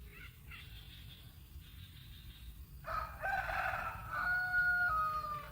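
A rooster crowing once, starting about three seconds in and lasting some two and a half seconds, with fainter high chirping before it.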